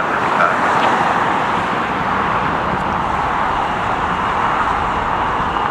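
Steady jet engine noise from a wide-body airliner close by.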